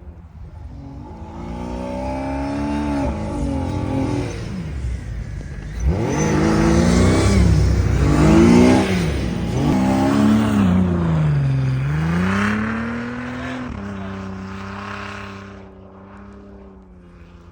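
A 4x4's engine revving up and down several times under throttle, with a steady hiss over it, then settling to a steady lower note for the last few seconds.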